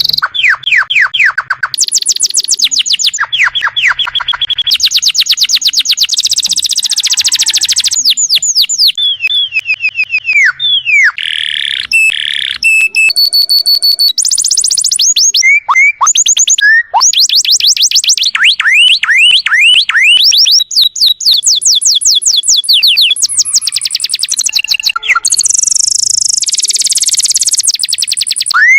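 Domestic canary song in a tutor recording: fast repeated trills, rapid chip series and falling whistled notes, high-pitched and continuous. The phrases change abruptly every second or two, as if spliced together.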